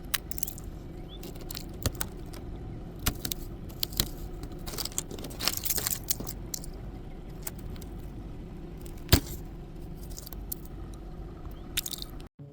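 Thick ice being chipped and broken off a car: scattered sharp knocks and clinks of the scraper striking and ice breaking, with one louder crack about nine seconds in, over a steady low hum.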